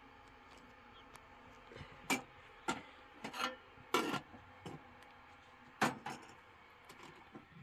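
About half a dozen short rasping, scraping strokes at an irregular pace, starting about two seconds in.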